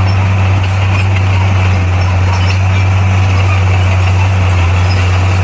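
Bulldozer's diesel engine running steadily, a low, even drone that neither rises nor falls.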